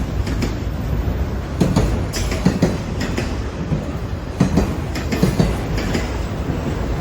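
Train passing close by: a steady, loud rumble of rolling cars with irregular clacks of wheels striking rail joints.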